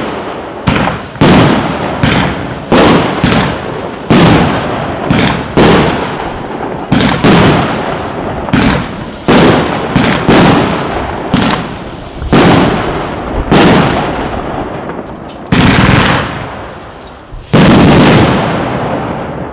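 A 304-shot, 1.2-inch consumer firework cake (Klasek C304MK) firing shot after shot, roughly one to two sharp bursts a second, each trailing off quickly. Near the end come two longer, louder bursts, and the sound then fades as the cake finishes.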